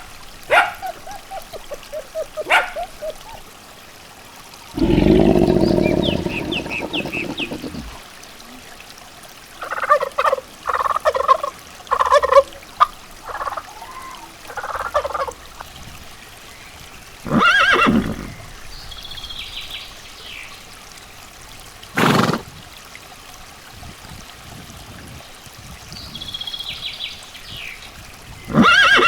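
Farmyard animal calls: a loud, low drawn-out call lasting about three seconds, then a run of short calls like poultry gobbling, with a sharp knock and faint high chirps later.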